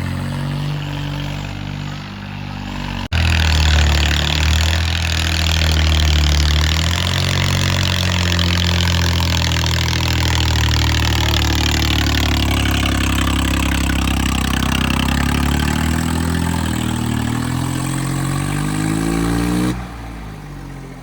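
Diesel tractor engine running and revving, its pitch rising and falling. A sudden cut about three seconds in brings it louder, and near the end it drops in level as the pitch climbs.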